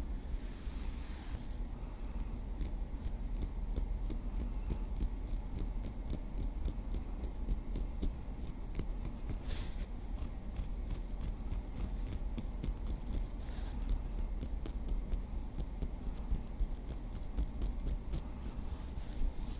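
Light tapping with a small wooden stick: quick, crisp clicks, several a second, over a steady low hum.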